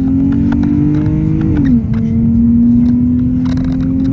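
Single-turbo Dodge Charger SRT engine pulling hard under acceleration. Its pitch climbs, drops sharply about a second and a half in as it shifts up a gear, then climbs again.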